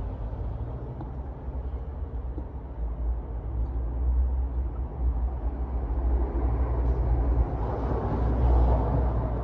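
BMW S55 twin-turbo straight-six engine running at a steady idle, warming up on fresh oil so the electronic oil level can be read.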